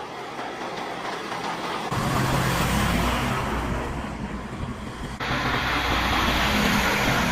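A heavy truck's diesel engine running steadily, with abrupt cuts between shots about two seconds in and again about five seconds in.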